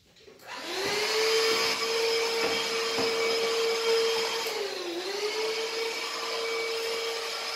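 A small high-speed electric motor spins up about half a second in and runs at a steady high whine. Its pitch dips briefly about five seconds in, then recovers.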